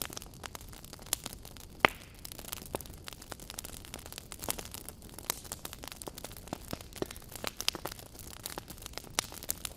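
Wood campfire burning, crackling with irregular sharp pops of varying strength over a steady low hiss, the loudest pop about two seconds in.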